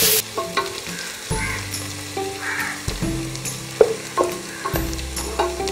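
Sliced onions sizzling in hot ghee and coconut oil in a nonstick pan as a wooden spatula stirs them, with sharp taps and scrapes of the spatula against the pan every second or so. Soft background music with low held notes runs underneath.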